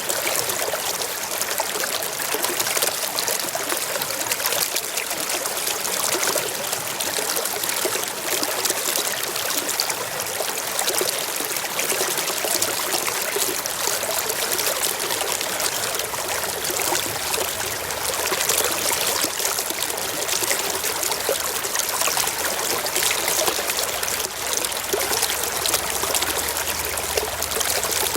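Small rocky stream babbling and trickling over stones, a steady even rush of water.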